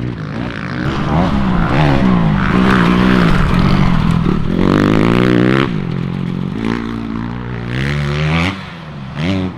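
Motocross dirt bike engine revving hard, its pitch climbing and falling again and again as the throttle is worked through the gears; it drops back sharply near the end and picks up briefly once more.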